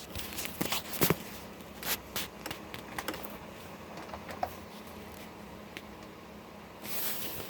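Window air conditioner running in fan-only mode, a low steady hum with irregular sharp clicks and ticks over it, and a short hissing burst near the end. The unit's fan motor has bearing problems.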